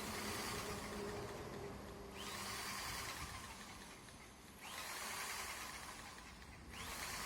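A handheld power tool switched on in repeated bursts of about two seconds, each starting with a short rising whine as the motor spins up.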